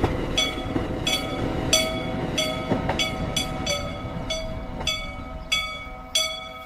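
Regular ringing metallic strikes, roughly one every half-second to second, over a steady low rumble.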